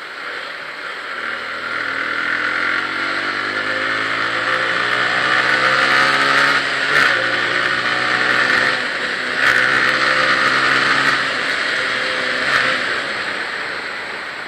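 Bajaj Pulsar 135 LS single-cylinder motorcycle engine pulling up through the gears, its note climbing and dropping back at shifts about seven and nine and a half seconds in. Wind rushes over the microphone throughout.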